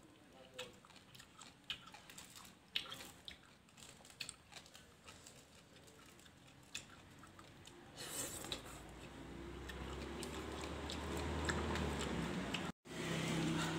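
A person chewing and crunching a mouthful of green papaya salad, with small sharp clicks and crunches. From about halfway a steady rushing noise with a low hum builds up and grows louder than the chewing, cutting out for a moment near the end.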